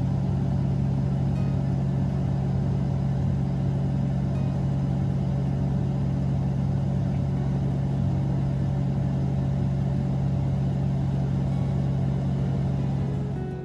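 A vehicle engine running at a steady speed: a constant low drone that does not change in pitch, over a rumbling noise.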